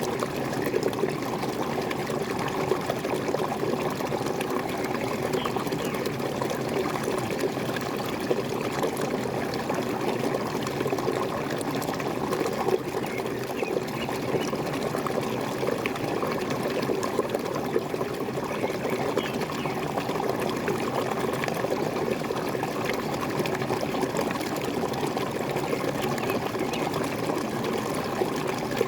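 Small waterfall: water splashing and gurgling steadily.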